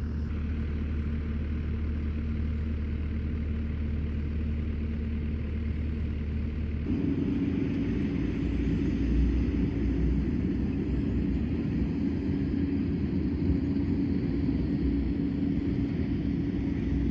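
An engine running steadily with a low hum; about seven seconds in a steady higher-pitched tone joins it and holds.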